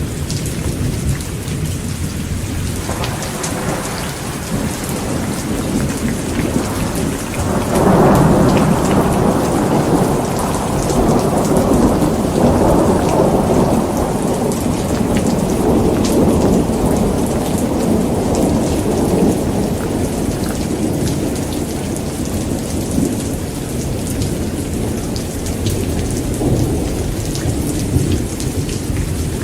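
Heavy rain falling steadily, with a long rumble of thunder that breaks in about a quarter of the way through, swells and slowly dies away. A fainter rumble comes near the end.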